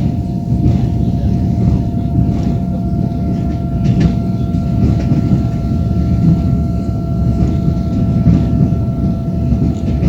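A passenger train running along the track, heard from inside the carriage: a steady low rumble of the wheels on the rails with a constant thin whine and a few faint clicks.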